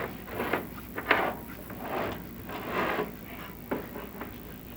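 Chimney inspection camera and its cable scraping and bumping against the flue walls as it moves through the flue, a series of short scraping noises.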